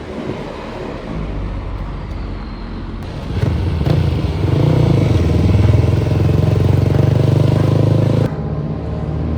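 Vehicle engine running close by, getting louder about three seconds in and holding steady, then dropping away suddenly near the end to a lower running sound.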